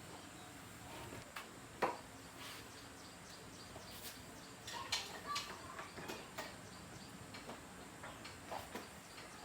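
Scattered light clicks and taps at irregular intervals over a faint steady hiss, with one sharper knock just before two seconds in and a quick run of clicks around five seconds in.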